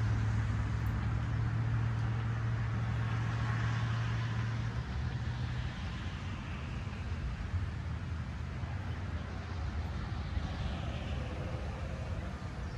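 A passing road vehicle's steady engine hum fading away over the first few seconds, leaving an outdoor background hiss.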